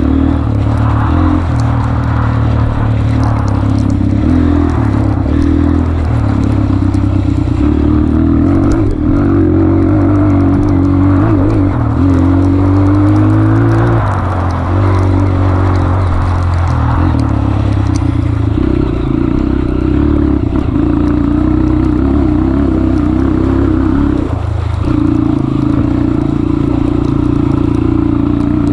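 Honda CRF230F trail bike's single-cylinder four-stroke engine running under load, its revs rising and falling again and again as the throttle is worked.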